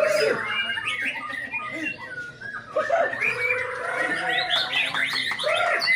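Several white-rumped shamas (murai batu) singing at once: overlapping, fast, varied whistled phrases with quick rising and falling notes. Lower calls come in at the start and again about three seconds in.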